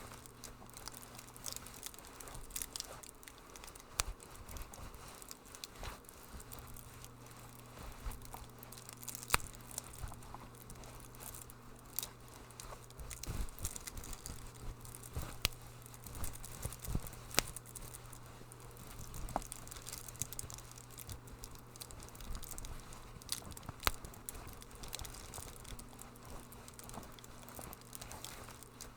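Wood fire crackling in a fireplace: irregular sharp pops and snaps over a soft hiss, with a faint steady low hum underneath.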